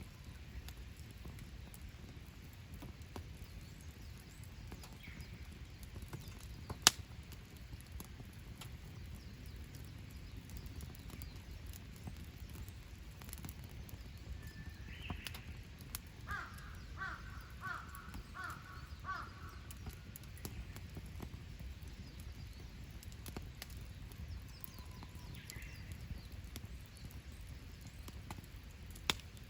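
A crow cawing about five or six times in a quick series just past the middle, over a campfire burning with a low steady rumble and one sharp pop about seven seconds in.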